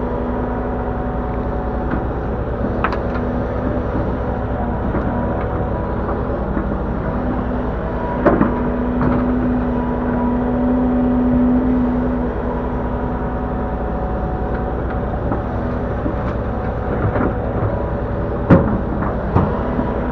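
Link-Belt 145X3E hydraulic excavator's engine running steadily as it works. A droning tone grows strong for a few seconds in the middle, and a few sharp clanks sound, the loudest near the end.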